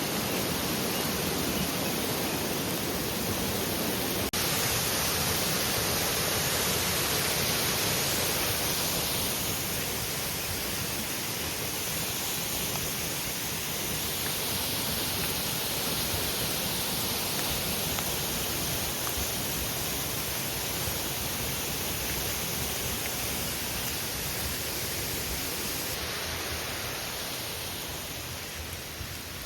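Steady rushing hiss of water pouring down a mountain waterfall, dipping slightly in level near the end.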